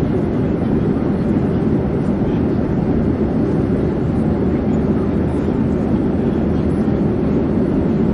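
Airplane in flight: a steady, even, low drone of engine and air noise that does not change.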